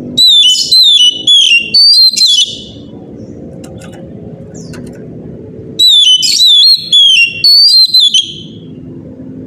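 Oriental magpie-robin singing two loud phrases of clear, whistled notes about three seconds apart, each a quick run of about five dipping notes. A steady low hum sits underneath between the phrases.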